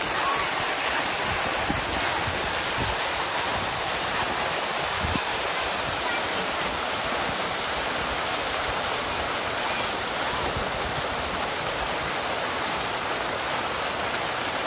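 Water fountain running: a steady, even splashing of falling water that does not change in level.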